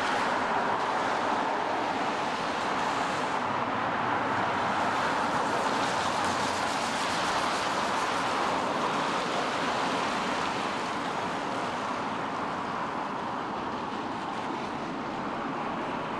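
Traffic on a rain-wet street: a steady hiss of tyres on wet road, louder through the first part and slowly easing off, over the wash of rain.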